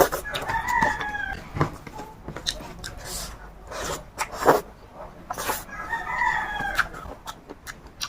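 A rooster crowing twice, each crow a little over a second long, the first about half a second in and the second about five and a half seconds in. Close, sharp clicks and crunches of eating run throughout and are the loudest sounds.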